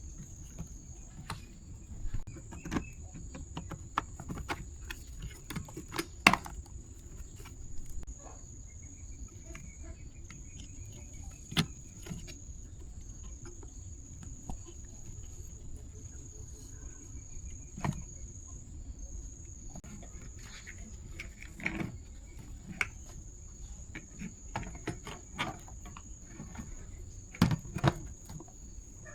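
Insects chirring steadily at a high pitch, with scattered sharp clicks and knocks from hands and tools handling parts.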